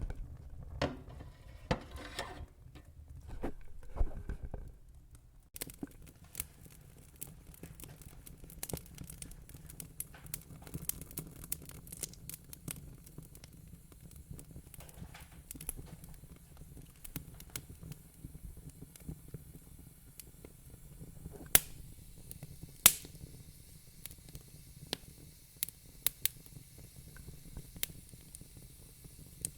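Wood fire crackling: irregular small pops and snaps over a low steady rumble, with two louder pops about two-thirds of the way through.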